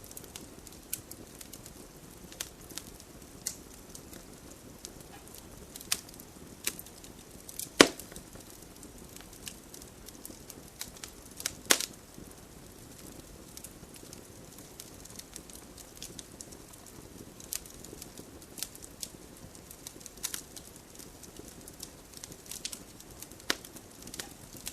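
Campfire burning with irregular sharp crackles and pops over a low steady rumble of flames; two louder pops stand out, about a third and halfway through.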